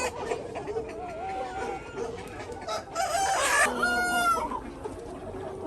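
Chickens clucking, with a rooster crowing once about three seconds in, a long call that is the loudest sound.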